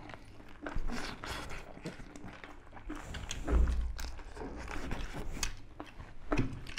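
People biting and chewing chicken drumsticks, eaten by hand: irregular wet smacks and small clicks of meat being torn off the bone and chewed, with a low bump about three and a half seconds in.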